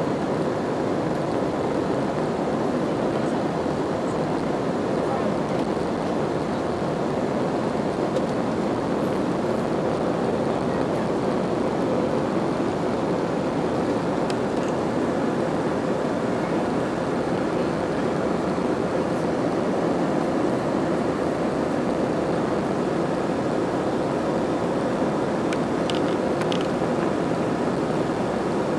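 Steady jet noise of an Airbus A320 during its takeoff: an even rushing sound with a faint hum, holding at one level.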